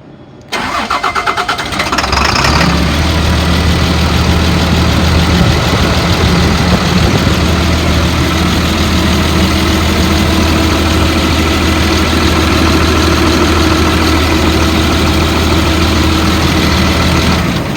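2003 Blue Bird All American school bus engine cranked by the starter, catching and revving up within about two seconds, then idling steadily before being shut off near the end. It starts right up and runs smoothly, but is gushing its oil out from the bottom of the engine.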